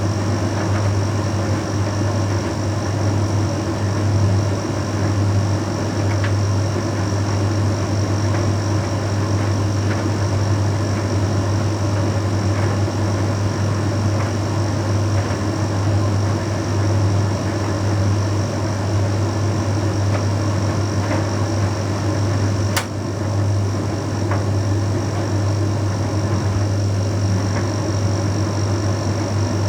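Bosch Series 6 heat pump tumble dryer running a Shirts cycle: a steady low hum with a faint high whine, and light scattered ticks from the turning drum. One sharp click comes about three quarters of the way through.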